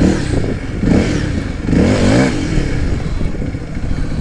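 Honda CRF300L's single-cylinder engine revving up and down several times in the first couple of seconds, then running at a steadier note.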